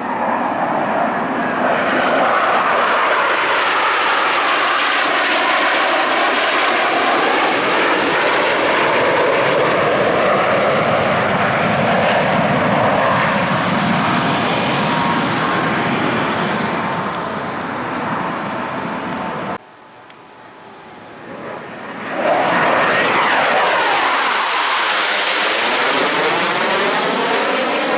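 Boeing F/A-18 Super Hornet jets passing low overhead, with a loud, steady engine noise and swirling rises and falls in pitch as they go by. The sound cuts off suddenly about twenty seconds in. A few seconds later another pass builds up and sweeps by.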